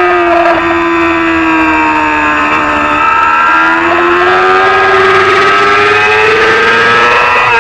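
Racing motorcycle engine running hard, an SSP3-class small-displacement supersport bike. Its pitch falls over the first two to three seconds as the bike slows, then climbs steadily under acceleration to the end.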